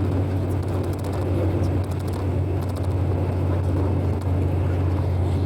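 A steady low hum, like a running motor, with a continuous rushing noise over it and a few faint clicks.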